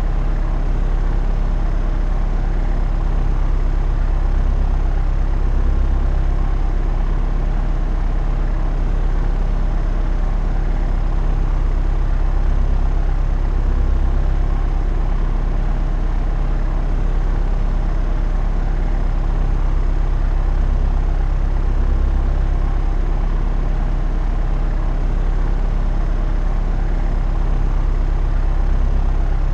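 Propeller aircraft in flight: a steady, unbroken engine and propeller drone, with a deep hum and several steady tones above it.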